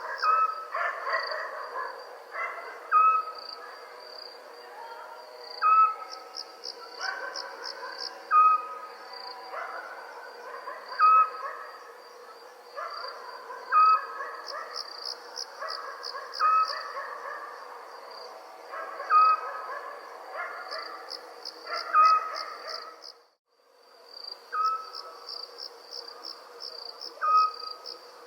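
Crickets chirring in a steady high trill that swells into pulsing bursts every few seconds. Over it an owl gives a short single-note call, about every two and a half seconds. The sound drops out briefly about 23 seconds in.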